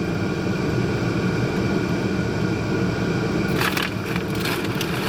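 Steady low rumble of a running vehicle, with a short burst of crinkling food packaging about three and a half seconds in.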